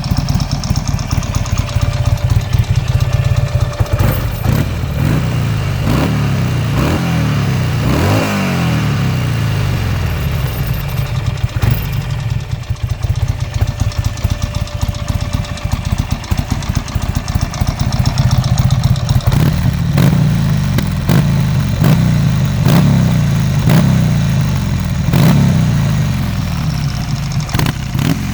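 2005 Buell Firebolt XB12R's air-cooled V-twin running through a Yoshimura aftermarket exhaust: idling with a deep rumble, with short throttle blips that rise and fall back several times, one bigger rev about eight seconds in and another run of blips in the last third.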